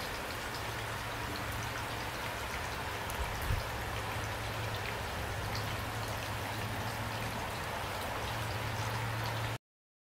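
Steady rain falling, with scattered drop ticks over a low steady hum and one brief low thump about three and a half seconds in. The sound cuts off suddenly near the end.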